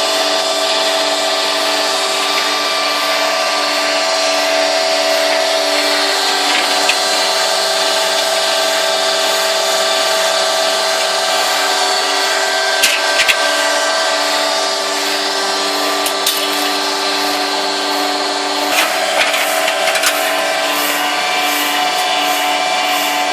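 Truck-mounted concrete pump running while pumping, a steady mechanical whine made of several pitched tones, with a few short sharp clicks partway through. The running sound carries an extraneous noise that points to a fault in the pump's operation.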